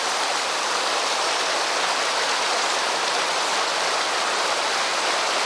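Mountain stream water flowing, a steady even rush with no breaks.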